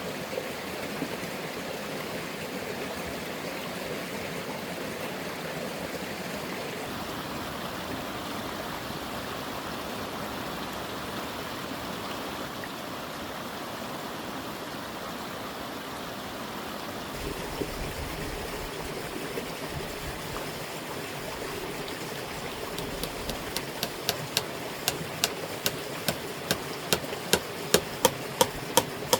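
Steady rush of flowing stream water. Near the end, a run of sharp, evenly spaced knocks begins, about two to three a second and growing louder, like hammering.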